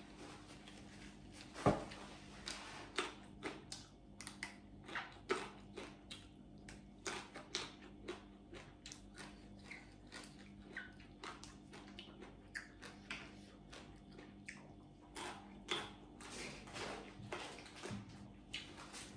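Close-up eating sounds: crisp crunching and mouth clicks while chewing raw pea eggplants, a steady string of short crackles, with one louder knock about two seconds in.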